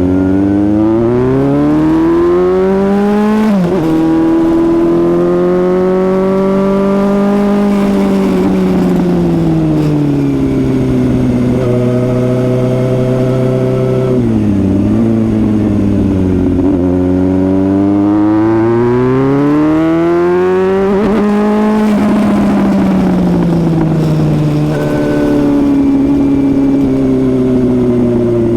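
Suzuki GSX-S750's inline-four engine accelerating hard, its pitch climbing and then dropping suddenly at upshifts about four seconds in and again around the middle, and easing down as the throttle rolls off before climbing once more.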